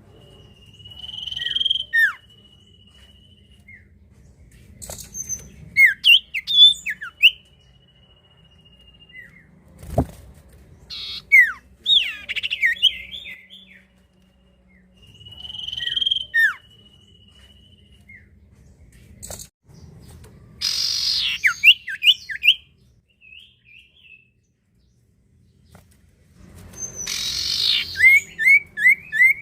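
Common iora (cipoh/sirtu) singing in repeated phrases: a long drawn-out whistle, sharp falling chirps and quick runs of short notes. Harsh rasping calls come about two-thirds of the way in and again near the end. A low rumble runs underneath.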